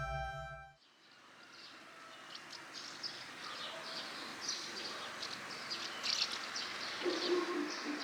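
Music ends about a second in, then outdoor ambience fades in with small birds chirping. A lower, repeated animal call comes in near the end.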